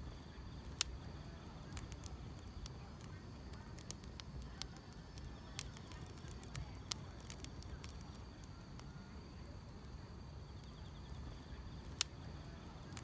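Wood fire crackling, with a handful of sharp pops over a low rumble, under a steady high chirring of grass insects.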